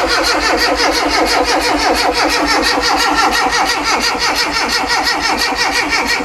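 Classic Mini engine being cranked by its starter motor, turning over with a rapid, even rhythm and not firing. The starter is run by bridging the starter relay, which does not switch over from the ignition key.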